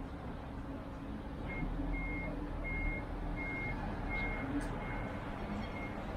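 A vehicle's reversing alarm beeping steadily at a single high pitch, about one and a half beeps a second. It starts about a second and a half in, over a low background hum.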